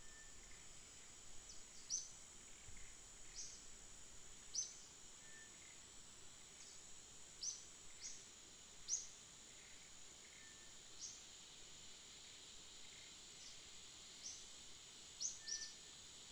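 Faint, scattered high chirps, about a dozen at irregular intervals, typical of small birds, over a steady high hiss.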